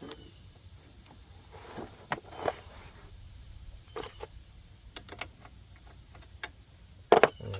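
Scattered clinks and knocks of hand tools being handled during ATV axle work, a handful of separate taps with the loudest knock about seven seconds in.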